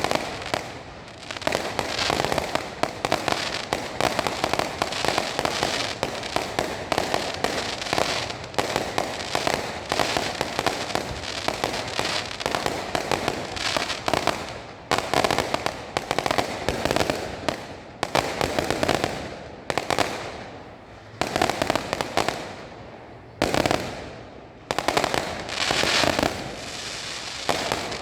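Fireworks display: a dense, rapid barrage of bangs and crackling, with a couple of brief lulls a little past two-thirds of the way through before it picks up again.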